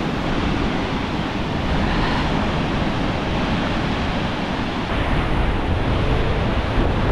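Steady rushing of the Tvindefossen waterfall, a dense even hiss of falling water, with wind buffeting the microphone.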